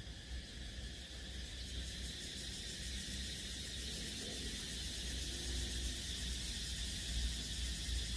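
A steady hiss over a low hum, growing slightly louder.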